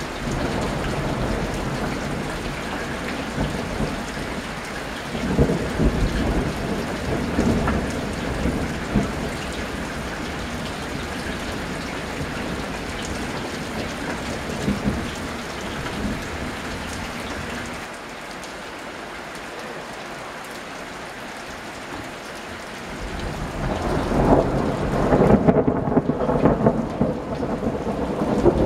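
Thunder rumbling over steady heavy rain. One roll of thunder comes about five seconds in, and a louder one builds from about 23 seconds in and carries on to the end.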